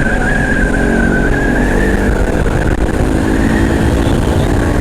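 Honda CBR500R parallel-twin on an aftermarket exhaust, running steadily at cruising speed under heavy wind rush on the rider's microphone. A steady high whine sits over the engine and sags slightly in pitch.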